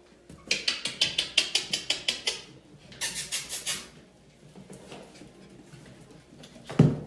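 A quick run of about a dozen sharp clicks, then a short hissing rustle, then a single heavy thump near the end.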